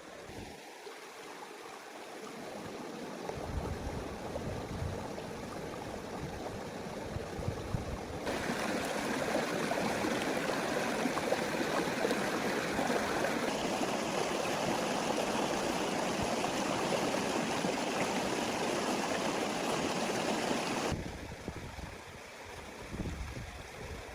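Steady rush of running water, in several abruptly cut segments, loudest through the middle.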